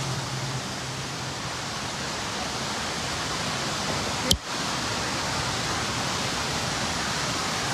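Steady rushing noise of wind and water on a moving boat, with a single sharp click about four seconds in.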